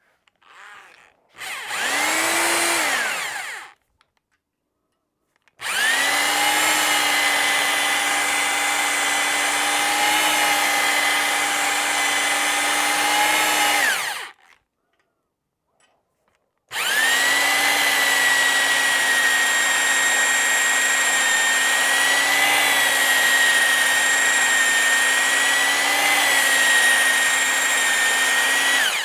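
Electric drill driving a cylinder hone in an outboard cylinder bore, run three times: a short spin-up and spin-down, then two long steady runs at constant speed. It is opening the bore a couple of thousandths at a time.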